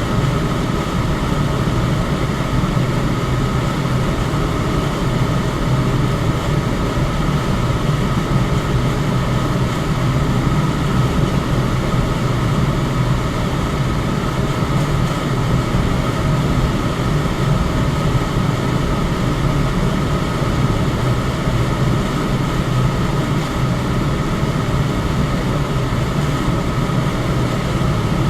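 Electric fan running steadily: an even rush of air and motor hum, heaviest in the low range, with a faint steady higher tone above it.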